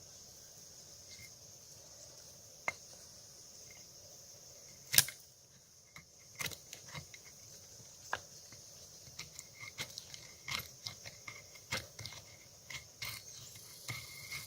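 Crickets trilling steadily, high and faint, with scattered light clicks and jingles that grow more frequent in the second half and one sharp click about five seconds in.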